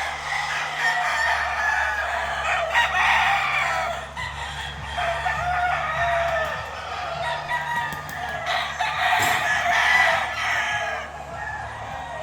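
Roosters crowing, with overlapping calls and clucking. The loudest crows come about three seconds in and again near ten seconds.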